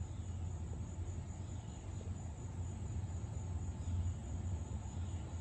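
Low, steady rumble of an approaching CSX diesel-hauled coal train moving slowly, growing a little louder. A thin, steady high insect trill runs over it.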